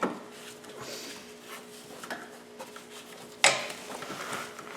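Hand tools clinking and tapping against metal engine parts, with one sharper metallic clank about three and a half seconds in.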